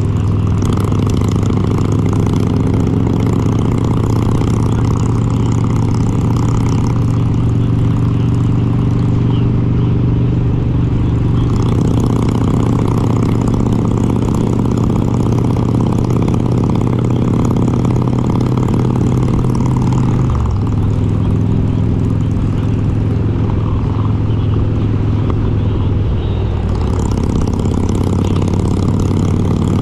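Harley-Davidson Road King's S&S 95-cubic-inch V-twin engine running steadily while riding. Its pitch drops a little about twenty seconds in.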